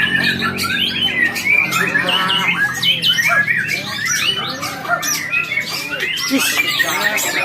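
White-rumped shama (murai batu) singing a rapid, varied run of whistles and chattering notes that swoop up and down without pause.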